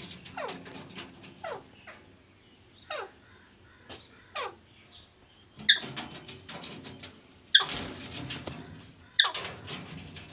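Pet parrot calling: a string of short calls that each fall steeply in pitch. The last three, in the second half, are louder, harsher screeches.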